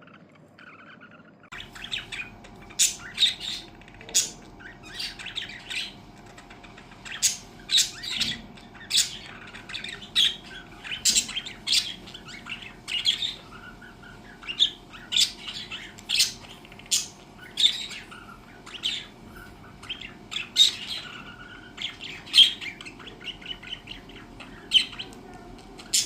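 Pet budgerigars chirping and squawking in quick, overlapping calls over a faint steady hum that comes in about a second and a half in.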